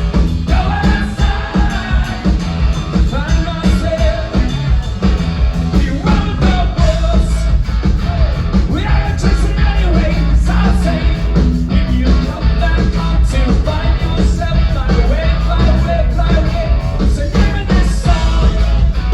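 A rock band playing live, loud and steady, with a singer's voice over it.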